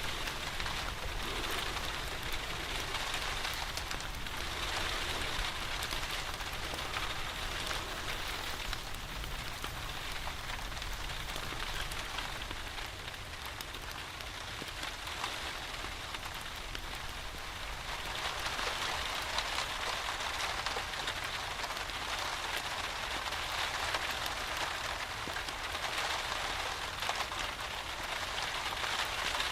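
Steady rain falling on a surface, with fine scattered drop ticks, easing slightly midway and then picking up again.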